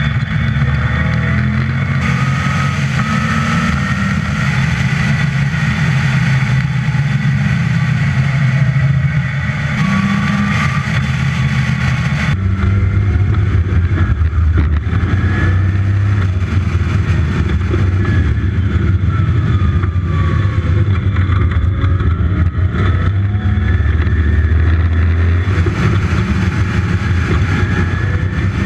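Westfield's 5-litre V8 engine running hard on track, heard from onboard the open car with wind noise; its pitch rises and falls, and the engine note changes abruptly about twelve seconds in.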